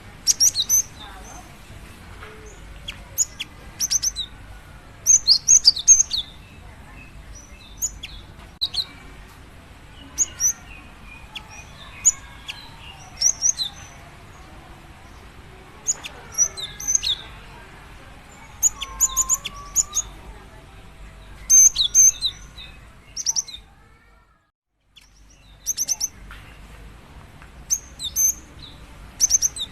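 Female cinereous tit (gelatik batu) calling for a male: short bursts of quick, thin, high chirps, repeated every second or two. The sound cuts out for about a second roughly three-quarters of the way through.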